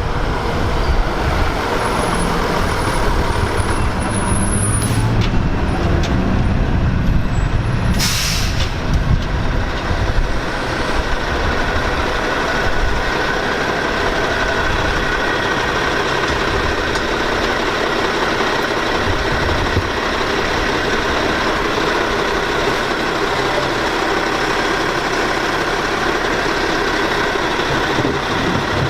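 Maxon MSL automated side-loader garbage truck running, with a short burst of air hiss about eight seconds in.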